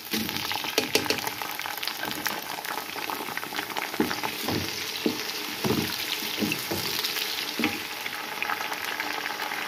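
Chopped tomatoes and green chillies dropped into onions frying in hot oil in a nonstick pan, the sizzle jumping up as they go in. A wooden spatula then stirs them, with a string of short knocks and scrapes against the pan.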